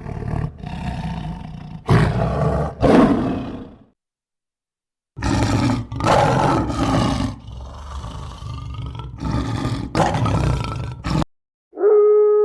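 Big cat roaring: a run of loud roars, then after a clean break of about a second a second recording of more roars. Near the end a different long, steady pitched call begins, its pitch sinking slightly.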